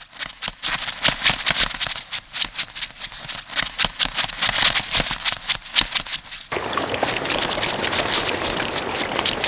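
Crab sound effect: rapid, irregular dry clicking and rattling, which gives way about six and a half seconds in to a steady hissing crackle.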